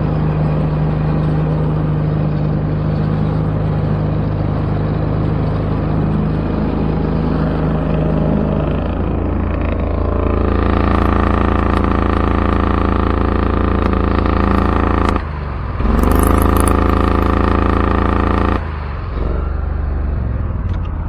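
Replacement Kohler engine on a zero-turn mower running, then throttled up about ten seconds in. Its pitch rises but it will not rev out to full speed. It briefly sags and climbs back partway through, then drops to a lower note near the end. The engine lacks power above half throttle, which the owner attributes to it popping back through the carburetor.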